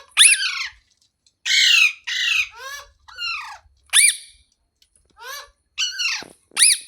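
A rose-ringed (Indian ringneck) parakeet giving a series of about eight short, high calls in quick succession, each rising and then falling in pitch.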